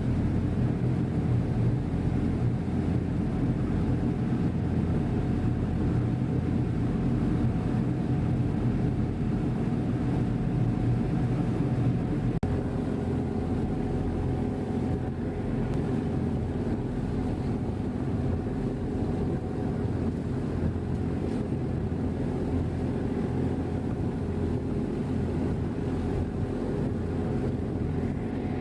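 Passenger ferry's engines running steadily, a low drone with a steady hum, heard on board.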